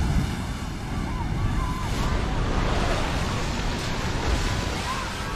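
Ocean waves washing and breaking on a shore, a steady rushing sound.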